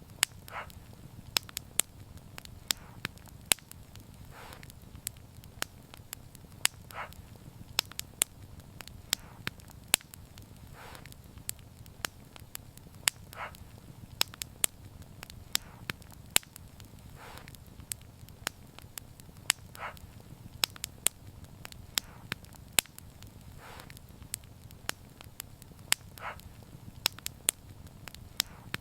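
Wood fire crackling, with frequent sharp pops and snaps over a soft low rumble, and a brief soft hiss every two to three seconds.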